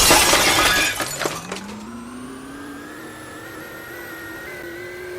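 A loud crashing, clattering noise lasting about a second and fading into a few rattles. Then a washing machine's motor whine starts low and rises in pitch over a couple of seconds as the drum spins up, settling into a steady high whine.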